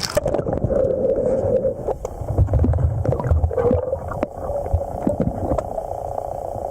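Underwater river sound: a steady droning hum with low rumbling about halfway through and scattered clicks and knocks.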